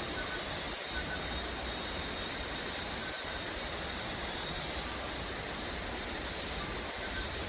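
A steady, high-pitched drone of rainforest insects (crickets or cicadas) chirring together without a break.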